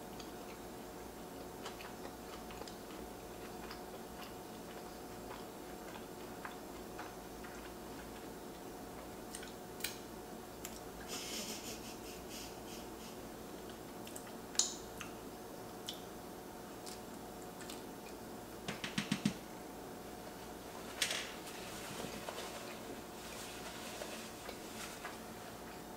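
Close-miked chewing of a sweet potato crust flatbread: scattered soft crunches and wet mouth clicks, with a quick run of smacks about three-quarters of the way through, over a faint steady hum.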